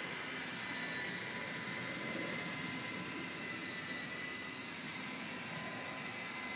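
iRobot Roomba Combo i5+ robot vacuum running, a steady motor-and-fan whir with a faint high whine, dotted with tiny high chirps and clicks.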